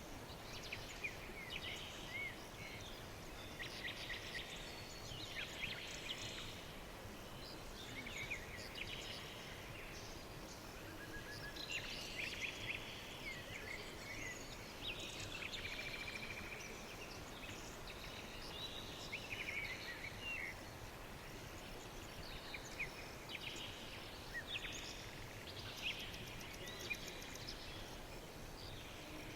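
Small birds chirping and trilling in short, overlapping phrases throughout, over a steady background hiss.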